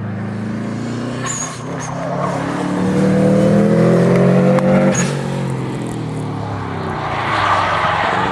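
Subaru Impreza's flat-four boxer engine revving hard as the car drives round a track, its pitch climbing for a couple of seconds and then dropping sharply about five seconds in as the driver lifts or shifts. A rush of tyre noise follows near the end.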